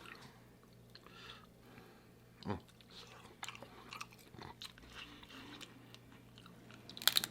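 Quiet close-up chewing and small clicks of crab legs and lobster being eaten, with a soft thump about two and a half seconds in and a quick run of sharp cracks near the end.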